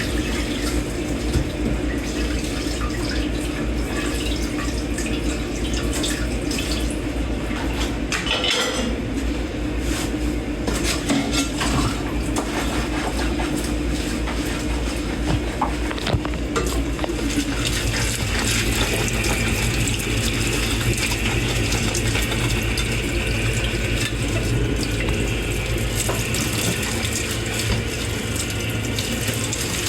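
Dishes being hand-washed in a kitchen sink under a running tap: a steady rush of water, with dishes and cutlery clinking and knocking now and then. Around the middle the water's sound shifts in pitch and then runs on evenly.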